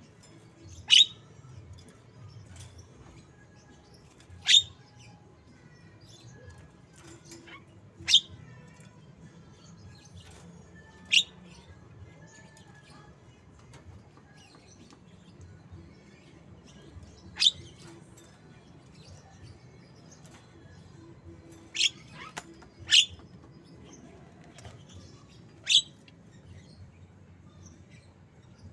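Javan myna (jalak kebo) giving short, sharp, loud calls, about eight of them spaced a few seconds apart, in a white-rumped shama's (murai batu) voice that it mimics.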